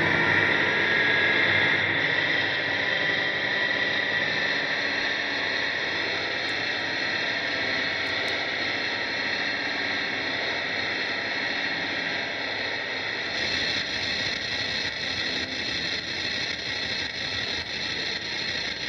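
Noise-music drone: a dense, steady wash of distorted, effects-processed noise with a hissing upper edge and no clear notes, easing slightly in level as it goes.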